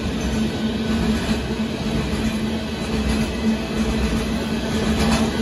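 Loaded freight cars of a Union Pacific gravel train rolling steadily past, a continuous rumble of steel wheels on the rails.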